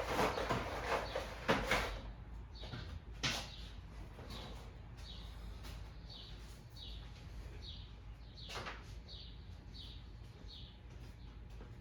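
Rustling and knocking of parts being handled for about the first two seconds, then a few single clicks. A small bird chirps repeatedly, about twice a second, in short high falling notes.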